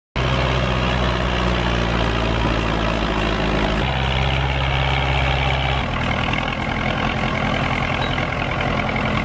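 Heavy engine of a logging machine running steadily, its pitch shifting abruptly about four seconds in and again about six seconds in.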